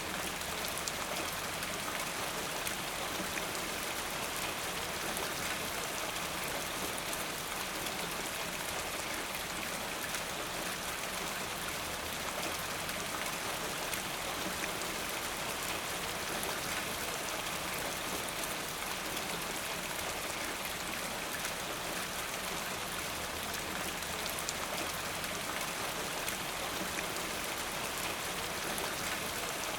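Steady rainfall, a continuous even hiss of many raindrops pattering on a surface.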